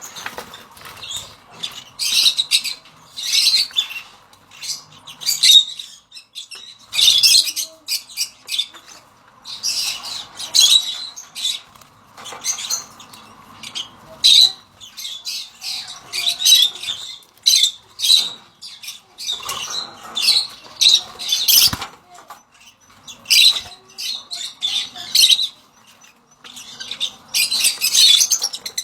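Peach-faced lovebirds giving short, shrill chirps and squawks in quick repeated bursts.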